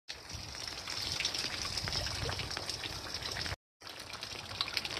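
Steady rain falling, a hiss dotted with many small, sharp drop ticks. The sound cuts out for a moment about three and a half seconds in, then resumes.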